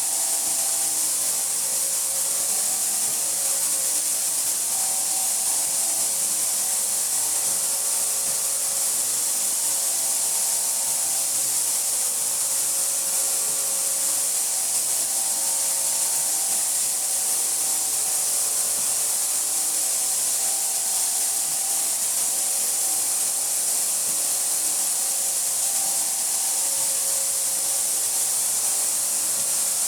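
Ultra 3800 FLT ultrasonic cleaning tank running its ultrasonic cycle: a steady high hiss of the cleaning water cavitating, with faint wavering hums underneath.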